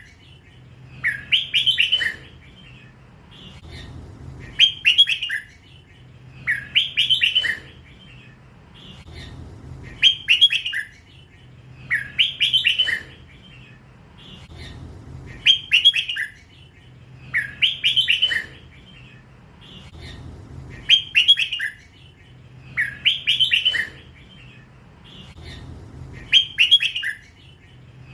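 Young hybrid red-whiskered bulbul singing the drawn-out 'lak wai' song prized by Thai bulbul keepers. It gives a short phrase of rapid notes about every two and a half seconds, about ten times, each phrase much alike.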